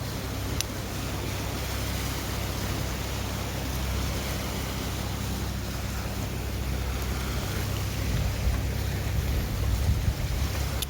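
Wind buffeting the microphone over the wash of sea surf, gusting harder near the end. One sharp click about half a second in.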